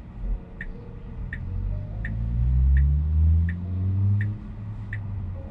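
Turn-signal indicator ticking steadily inside the Tesla Model Y cabin, about three clicks a second, with the car signalling a left turn. A low vehicle rumble swells and rises in pitch in the middle and is the loudest sound.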